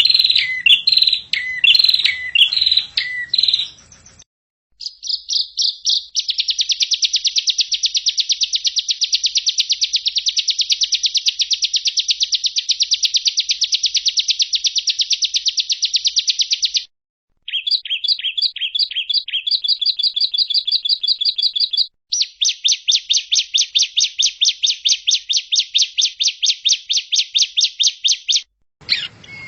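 Recorded songbird song played as a masteran training track: a short falling whistled phrase repeated about twice a second, then long, very fast trills of high repeated notes, and near the end a slower run of about six notes a second. The segments start and stop abruptly, like clips spliced together.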